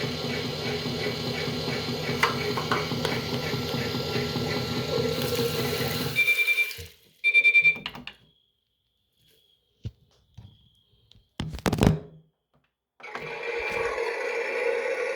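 Toy washing machine's small motor running with a steady whir, then cutting out about six seconds in. Two short electronic beeps follow, then a few clicks and a knock, and the motor starts running again near the end.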